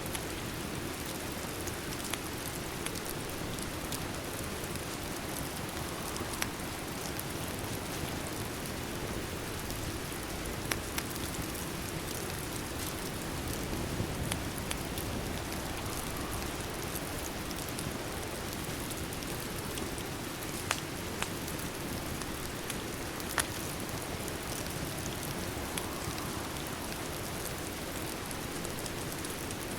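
Steady rain ambience mixed with a fireplace, a continuous even hiss with a scattering of sharp crackles or pops every couple of seconds.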